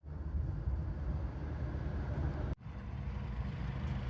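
Storm wind buffeting the microphone: a steady low rumble with a hiss above it, which cuts out for an instant about two and a half seconds in.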